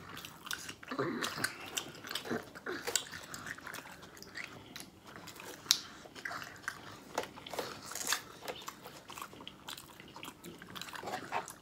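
Close-up eating sounds of two people biting and chewing: a pickle bitten and chewed, with soft mouth clicks and a couple of sharper crunches about six and eight seconds in.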